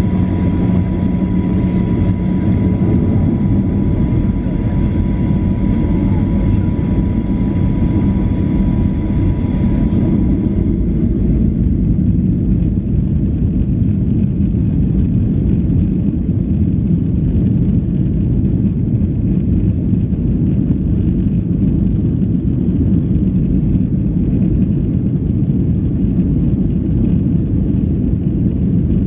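Steady low rumble of a moving vehicle, loud and even throughout. A thin steady tone sounds over it until about ten seconds in, then stops.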